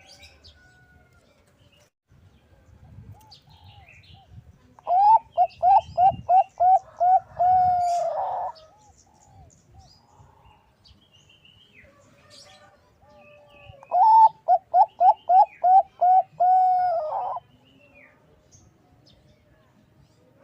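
Zebra dove of the Thai 'Bangkok' perkutut type cooing: two song phrases, each a quick run of about seven short rising coos ending in a longer held note.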